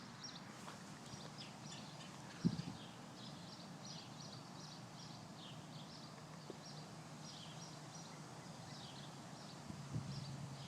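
Faint outdoor ambience: small birds chirping irregularly over a low steady hum, with one brief knock about two and a half seconds in.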